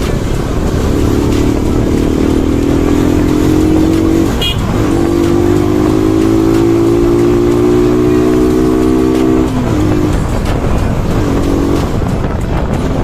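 Bajaj Pulsar NS200's single-cylinder engine pulling hard under acceleration: its note climbs steadily, dips at a gear change about four and a half seconds in, climbs again for about five seconds, then drops off as the throttle closes. A steady low rush runs underneath.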